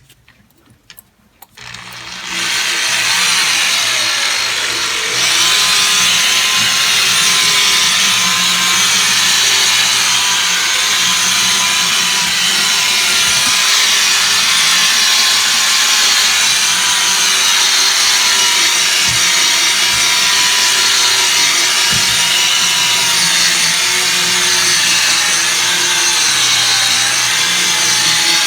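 Electric drill spinning a coarse foam polishing pad against a steel toolbox, a steady whir with the pad rubbing on the metal. It starts about two seconds in and gets louder a few seconds later.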